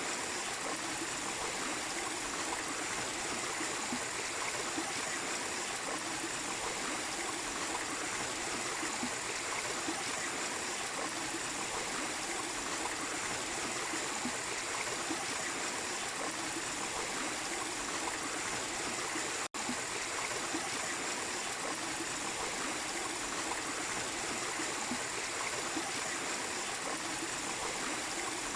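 Small waterfall splashing steadily over rocks into a stream, an even rushing of water that breaks off for an instant about two-thirds of the way through.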